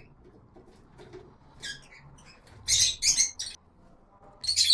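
African lovebirds giving a series of short, shrill chirps, several in quick succession in the second half.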